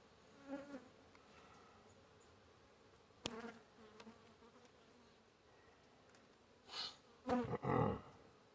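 Honeybees buzzing around an open hive, with several bees passing close by in short loud buzzes, the biggest cluster near the end. A single sharp click about three seconds in.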